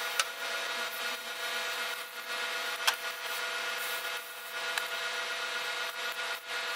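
Aerosol can of tire foam cleaner spraying in a steady hiss, with a few sharp clicks.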